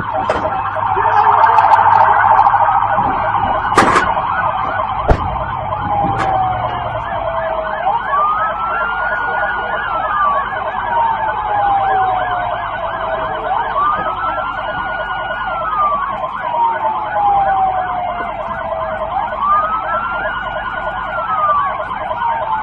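Police sirens sounding together: one in a slow wail that climbs, holds and sinks about every six seconds, over another in a fast yelp. A sharp click is heard about four seconds in.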